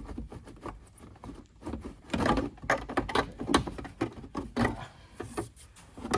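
Irregular clicks, knocks and scraping of hand tools working at a stubborn part in a car's engine bay, with the loudest knocks a little over two seconds in.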